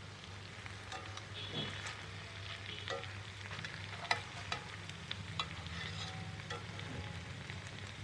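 Marinated chicken pieces sizzling in ghee in a thick-bottomed iron pan, with scattered sharp clicks and scrapes as metal tongs turn the pieces against the pan. A low steady hum runs underneath.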